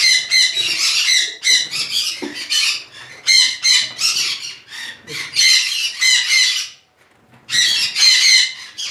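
Conures squawking loudly in repeated harsh bouts, with a short lull about seven seconds in.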